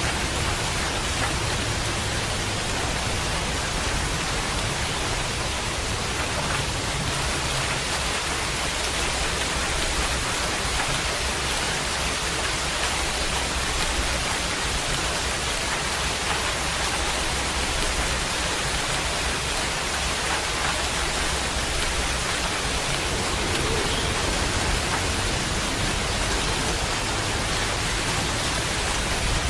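Steady rain falling, an even unbroken hiss of rain on surfaces.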